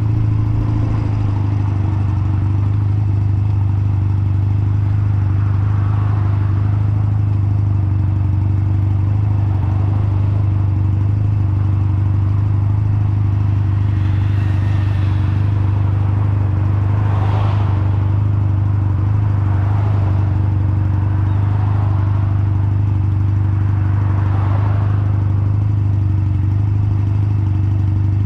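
Honda Nighthawk 250's air-cooled parallel-twin engine running at a steady, unchanging pitch while the motorcycle is ridden. A hiss rises and falls over it a few times.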